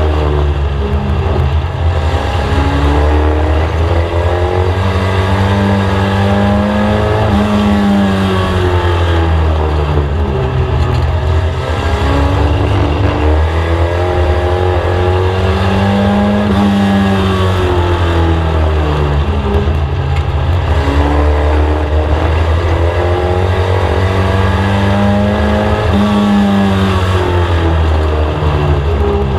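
Inside the cabin of a VW Scirocco Mk1 race car: its four-cylinder engine revs up and then falls back as it lifts, over and over, about every nine to ten seconds, as the car laps an oval track. A steady low drone runs underneath.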